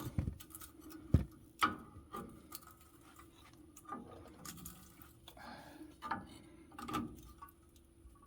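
Irregular metal clicks, knocks and scrapes as a tool pries the remains of an old rear axle seal out of a truck's wheel hub, working it loose a little at a time.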